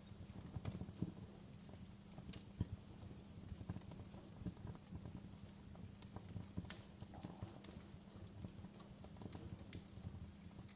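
Wood fire crackling, with irregular sharp pops and ticks over a low, steady rumble of the flames.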